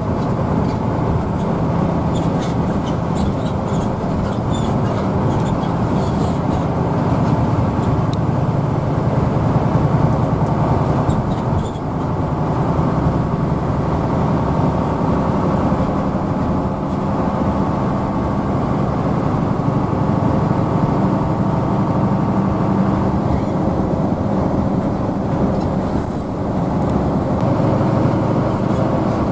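Hino AK bus running steadily on the road, heard from inside the passenger cabin: a continuous engine hum over rumbling road and tyre noise.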